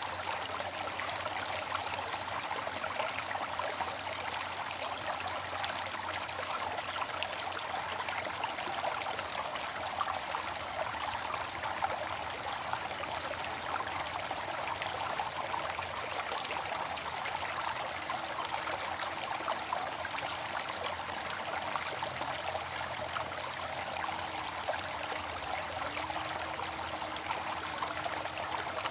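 Water fountain running, its water splashing and trickling steadily.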